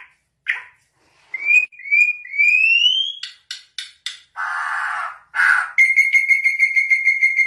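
Bird singing: three rising whistled notes, a few short clicks and a brief harsh note, then a long rapid trill held at one steady pitch that starts about six seconds in.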